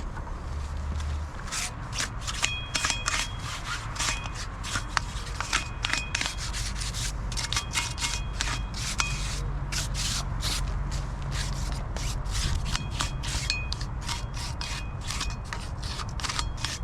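Hand-sanding a rusty steel wheel rim to key it for paint: quick, irregular scraping and rubbing strokes, with short high squeaks every few seconds.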